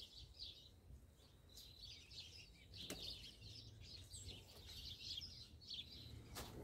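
Faint, scattered bird chirps over a quiet outdoor background with a low steady rumble. Two soft clicks come about three seconds in and near the end.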